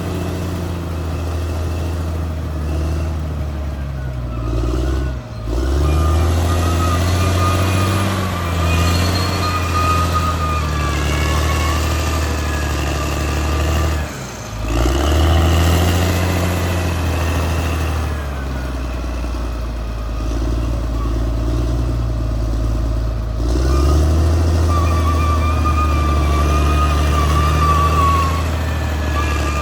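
Caterpillar D6R XL bulldozer working: a steady, loud diesel engine note with a wavering high whine above it. The sound drops off briefly about five seconds in and again around fourteen seconds, then picks back up.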